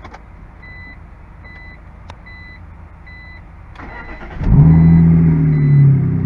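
A car's warning chime beeps about once a second. About four seconds in, the BMW's starter cranks briefly and the engine catches loudly, revving up and then easing slightly toward a fast idle.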